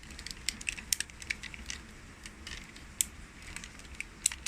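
Plastic parts of a Transformers figure being handled and moved through the shoulder transformation, with many small, irregular clicks and ticks as the joints and panels shift.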